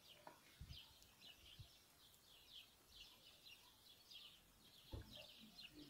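Faint, rapid bird chirping that goes on throughout, with a few soft low thumps in between.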